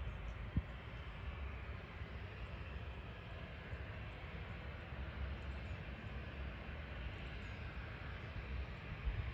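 Distant jet airliner engines: a steady low rumble with a hiss above it. There is a single brief knock about half a second in.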